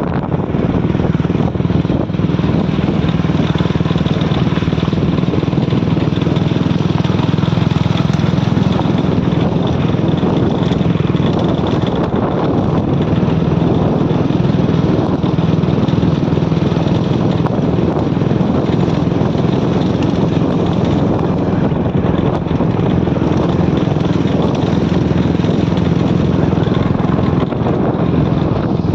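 Vehicle engine running steadily while under way, with a constant low drone over an even noise of road and air.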